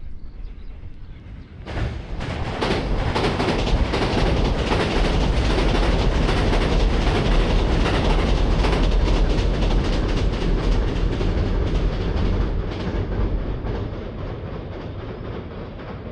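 A train passing close by, coming in suddenly about two seconds in with dense, rapid clacking of wheels over the rails, then fading away near the end.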